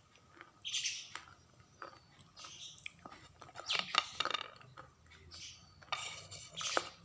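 Crunchy food being chewed with a full mouth: irregular, crisp crunches and mouth clicks, several to a second.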